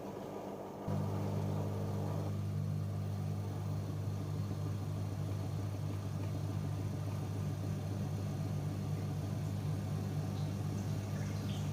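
AEG Öko-Lavamat 88840 washing machine mid-wash. A steady low electric hum starts about a second in and keeps going, while a rushing water sound fades out about two seconds in.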